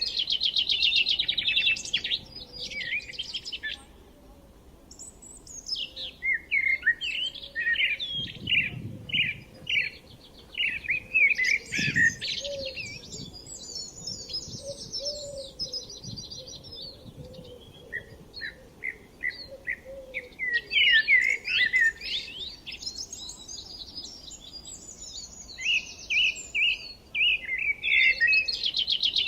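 Songbirds singing and chirping: a run of quick chirps, fast rattling trills and whistled phrases that briefly drops away about four seconds in, then carries on.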